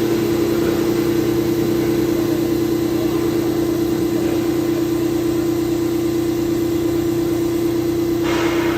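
VMC1160 vertical machining center running with a steady, even whine and hum. A hiss comes in near the end.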